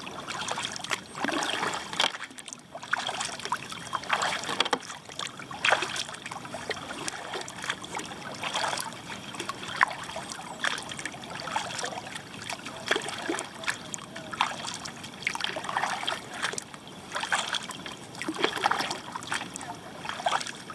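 Kayak paddle strokes in calm water, a dip and splash about every second or so, with water trickling and dripping off the blades between strokes.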